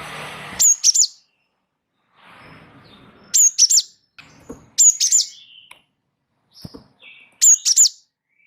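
Gelatik wingko songbird singing vigorously: clusters of two or three sharp, very high chirps about every one to two seconds, with softer raspy chattering notes between them.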